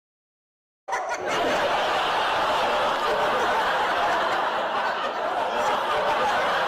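A second of silence, then a group of people laughing together, many voices overlapping in a steady stream of laughter.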